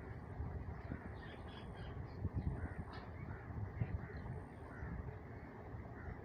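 Short harsh animal calls, repeated irregularly, over a steady low rumble with occasional thumps.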